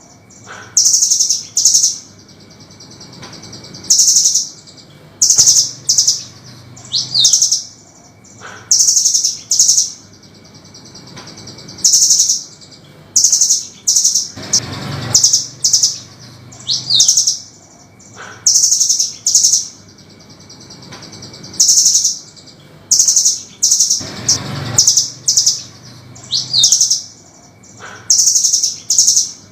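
Velvet-fronted nuthatch calling: short, sharp high-pitched chirps in quick runs, about one burst a second, some with a rising note, in a pattern that repeats about every ten seconds. Twice there is a brief noisier sound that reaches down low, and a faint low hum runs underneath.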